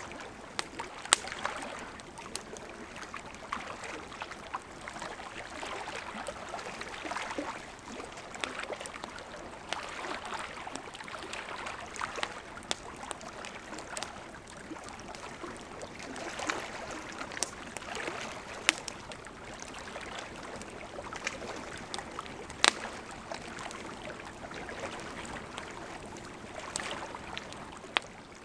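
Campfire of burning wood crackling steadily, with a soft hiss under irregular sharp pops, a few of them much louder than the rest.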